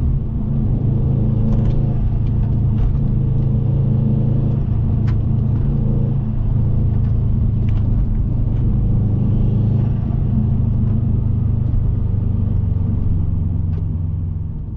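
Subaru Impreza WRX's turbocharged EJ20 flat-four engine droning steadily under way, heard inside the cabin with road noise.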